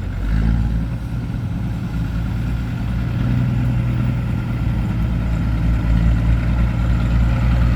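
Diesel engine of a six-wheel dump truck running steadily with a low drone, growing gradually louder.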